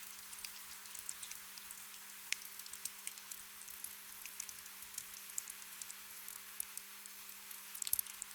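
Gentle rain: a soft steady hiss with scattered raindrops ticking and pattering at irregular moments, and a short flurry of drops near the end.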